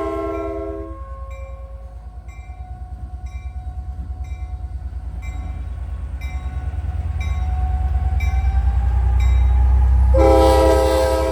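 Diesel locomotive horn chord cutting off about a second in, then the locomotive's low engine rumble growing louder as it approaches while a bell rings steadily, about one and a half strikes a second. The horn sounds again near the end.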